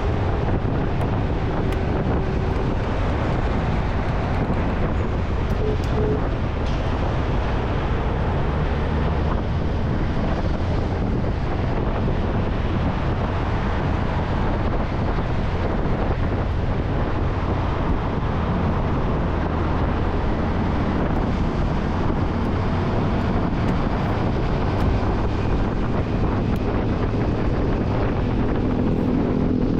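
Motorcycle riding at a steady speed: the engine's low running note sits under a constant rush of wind on the microphone.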